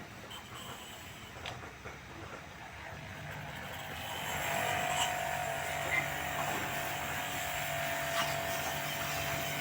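A motor-driven machine builds up between about three and five seconds in and then runs steadily, with a low hum, a held whine and a hiss.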